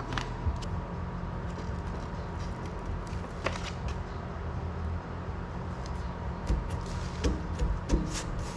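Scattered light taps, clicks and rubbing of grip tape being pressed onto a welder cart, over a steady low hum.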